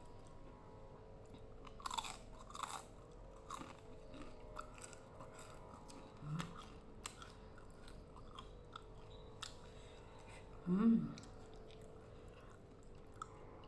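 Close-up mouth sounds of someone eating rujak: wet chewing with scattered crunches and clicks from lontong rice cake, cucumber and vegetables in sambal. About eleven seconds in comes a short, louder hum-like vocal sound from the eater.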